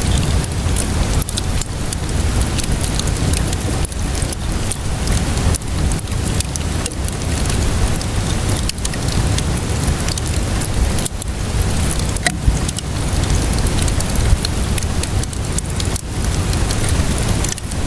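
Steady rainfall mixed with a crackling wood fire: a dense hiss and low rumble, dotted with many sharp pops and crackles, a couple of them louder past the middle.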